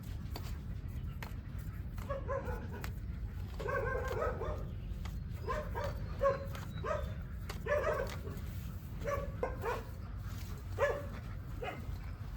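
Short animal calls, repeated irregularly a dozen or so times, over a steady low rumble.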